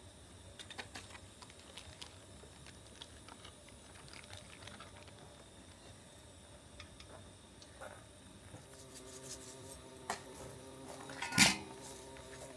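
Wet smoking wood crackling with scattered small pops and ticks on a hot Skottle as its soaking water boils off. A single sharp knock near the end is the loudest sound.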